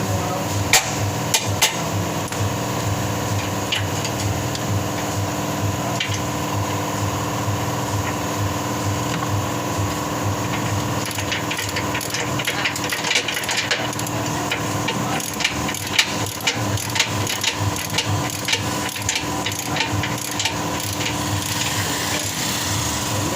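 Hand tools on metal: scattered sharp knocks and taps, busiest through the middle, over a steady machine hum.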